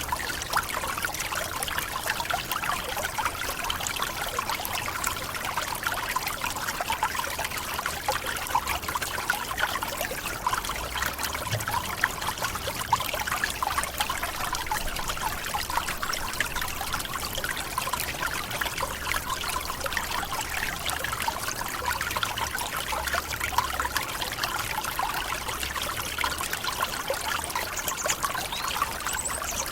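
Forest waterfall splashing and trickling steadily: an even rush of falling water full of small splashes.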